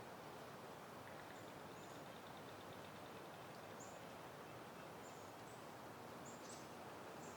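Faint, steady wind through foliage, with several brief, high bird chirps scattered through it.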